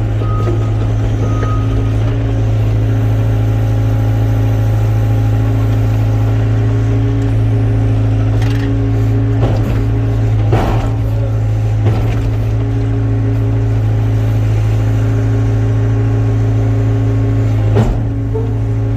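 Excavator's diesel engine running at a steady speed, with a few sharp knocks scattered through, mostly in the middle and once near the end.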